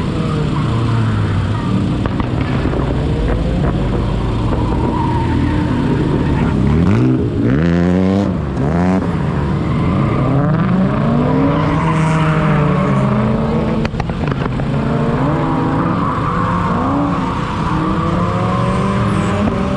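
Drift cars on track, engines revving up and down again and again with tyres squealing; at times more than one engine is heard at once, with sharp rises in revs about seven to nine seconds in.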